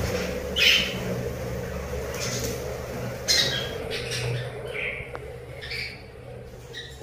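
Budgerigars calling: short harsh squawks and chirps, about six of them, spaced irregularly a second or so apart.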